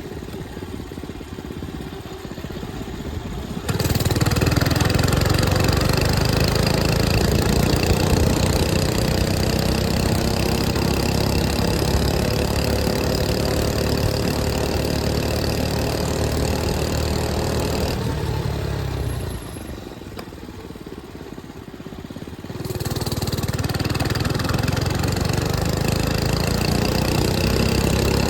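105cc mini bike engine running under way. It opens up sharply louder about four seconds in, eases off for a few seconds past the middle, then pulls again with its pitch slowly rising.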